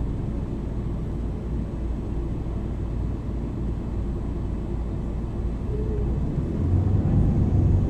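MAN NL 323 city bus running with a steady low rumble, growing louder about two-thirds of the way through as the engine note rises.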